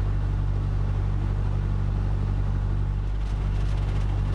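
Cessna 152's four-cylinder Lycoming O-235 piston engine running steadily on the ground, a low, even drone with a slight dip about three seconds in.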